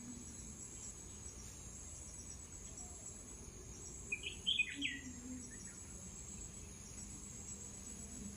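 Steady high-pitched insect chorus, with a short burst of bird chirps about halfway through.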